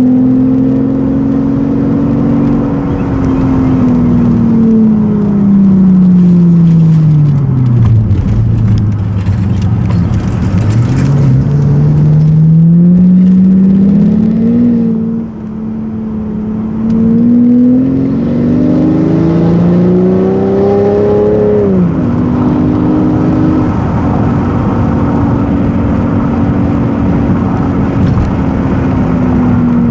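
Straight-piped V12 exhaust of a 2001 Mercedes-Benz S600, running loud. Engine speed sinks slowly, then climbs steadily for about ten seconds, drops sharply about two-thirds of the way in, and holds steady after.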